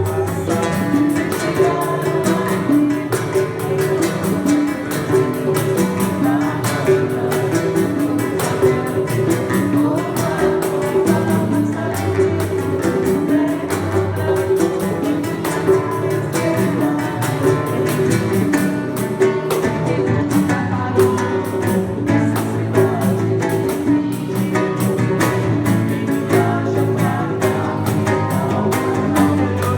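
Live Brazilian acoustic group: violão (acoustic guitar) strummed in a steady rhythm with hand percussion (bongos, pandeiro and congas) and singing.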